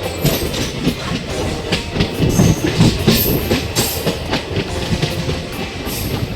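Passenger train of ICF coaches running along the track: a steady rumble with irregular clattering knocks of wheels over rail joints, and a few brief high squeals.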